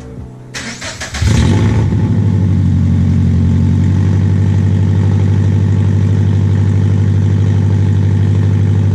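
Scion FR-S's 2.0-litre flat-four engine cranks briefly, catches and settles into a loud, steady idle. The exhaust runs open after the stock front pipe, with unequal-length headers and no muffler or resonator.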